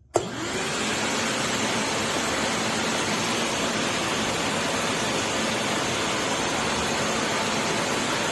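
DeWalt 6-gallon Stealthsonic wet/dry shop vacuum switched on: its motor spins up with a rising whine over about a second, then runs with a steady rush of air.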